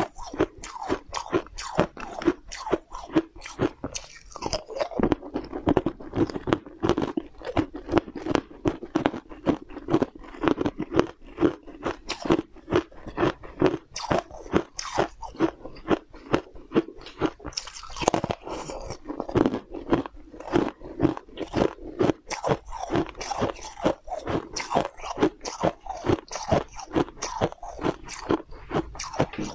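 Close-up crunching and chewing of a thin, crisp piece of food: rapid, sharp crunches at about two to three a second, with no break.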